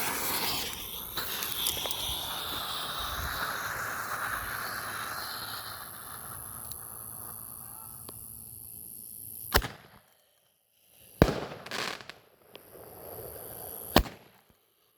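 Roman candle hissing steadily as it burns for about nine seconds. Then comes a short silence, followed by several sharp firework bangs, three or four of them over the next few seconds.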